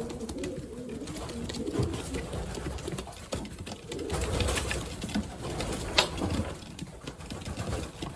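Pigeons cooing, low and continuous, with a sharp knock about six seconds in.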